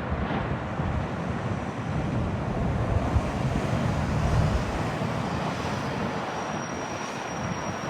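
Road traffic passing: a heavy vehicle's engine and tyre rumble swells to a peak a few seconds in, then eases off, with wind on the microphone. A faint high whine comes in near the end.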